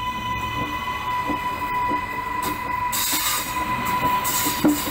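Electric suburban train passing close by, with a steady high whine, irregular knocks from the wheels on the track, and a rushing noise that swells from about halfway through.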